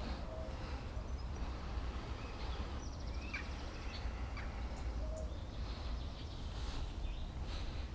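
A few short bird chirps over a steady low rumble of outdoor background noise.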